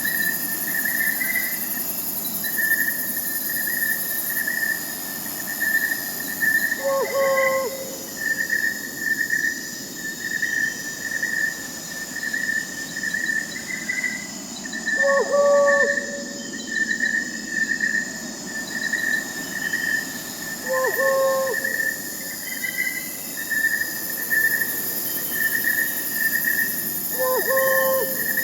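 Crickets chirping in a steady, pulsing chorus, with an owl giving a short hoot about every six or seven seconds, five times in all, over a soft high hiss of night insects.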